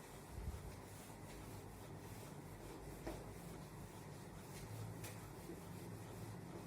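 Faint scratching and rubbing of writing strokes, with a dull thump about half a second in and a sharper click just after three seconds.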